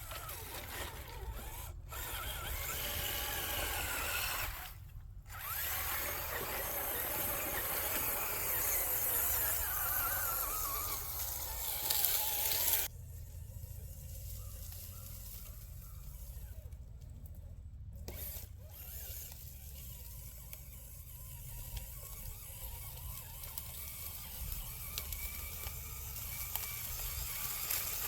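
RC rock crawler's electric motor and gears whining, the pitch wavering up and down with the throttle, then cutting off suddenly about halfway through. A quieter, fainter whine follows.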